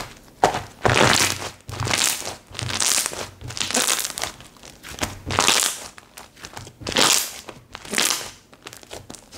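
Slime being squished and kneaded by hand, giving a crackly, crinkling squish with each press, roughly one press a second.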